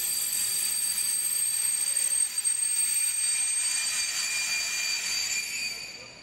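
Train running past: a steady rush of noise with several high-pitched whining tones, fading away near the end.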